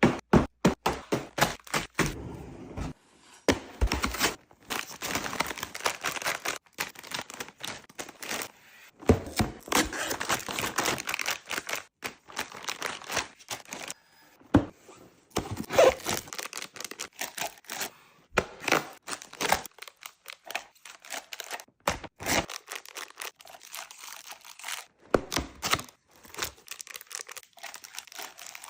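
Food packaging and containers being handled: crinkling and tearing of wrappers mixed with many short knocks and clacks as items are set down.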